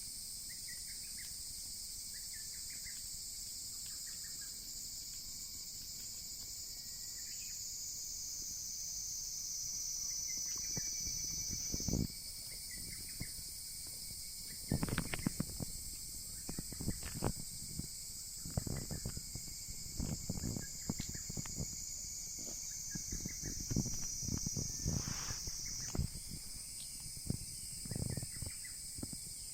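Steady high-pitched insect chorus; its pitch slowly falls, then jumps back up, twice. From about the middle on, the irregular crackles and pops of a wood fire burning driftwood are heard over it.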